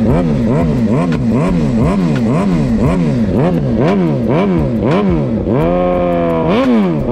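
Suzuki GSX-R 750 inline-four through a cat-deleted custom mid-pipe and M4 slip-on exhaust, revved in quick throttle blips about twice a second. Near the end the revs are held higher and ease down, then one more quick blip.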